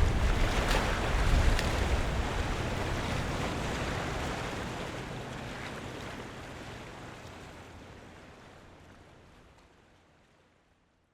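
Harbour waterfront ambience: waves and water washing under a low rumble, fading out steadily to silence near the end.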